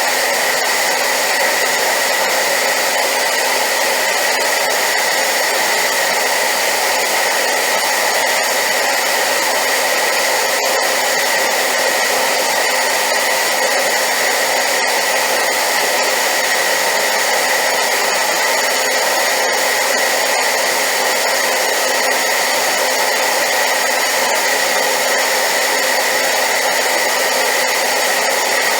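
Hair dryer running steadily: an even rush of blown air with a constant whine over it.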